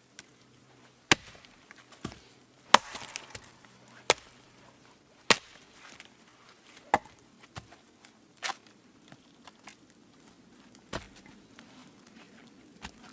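Wood being chopped: about ten sharp strikes at irregular intervals of one to two seconds, the loudest about a second in and near 3 s.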